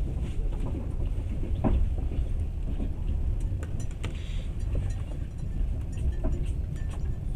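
Passenger train carriage running along the rails, heard from inside the carriage: a steady low rumble with a couple of short knocks and light rattles.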